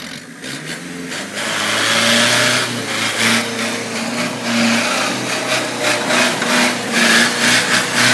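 UMM Cournil's engine running loudly, building up over the first two seconds and then swelling and dipping again and again as the throttle is worked.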